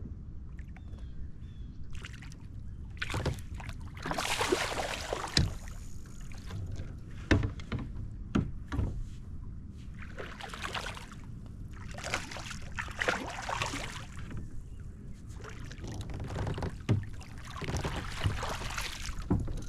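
Water splashing and sloshing around a kayak in irregular bursts of about a second each, with a few sharp knocks between them.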